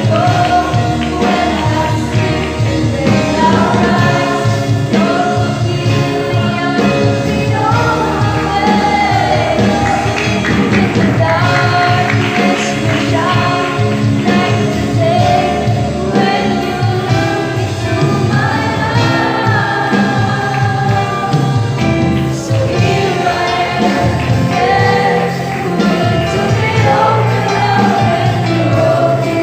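Youth choir singing a gospel song over instrumental accompaniment.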